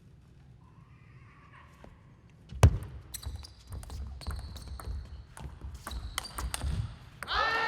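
Table tennis hall sounds: quiet at first, then a sharp loud knock about two and a half seconds in, followed by a run of clicks, knocks and brief high squeaks. A music sting with falling tones starts just before the end.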